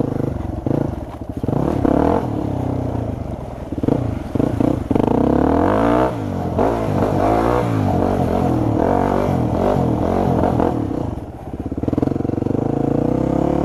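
Yamaha WR250 dirt bike engine being ridden around a mud pit, revving up and down with the throttle, its pitch rising and falling over and over. It eases off briefly about a second in and again near the end.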